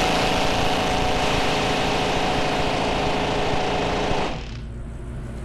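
Power impact wrench hammering steadily on a stuck bolt, then stopping about four seconds in.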